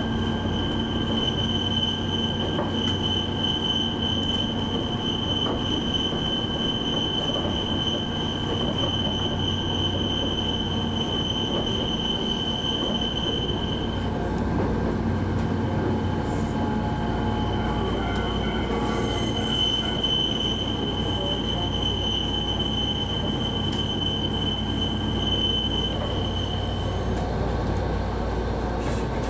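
Commuter train car running on the rails, heard from inside: steady rumble of wheels and running gear under a thin, high, steady wheel squeal. The squeal drops away about halfway through, comes back a few seconds later and fades again near the end, typical of the wheels on curving track.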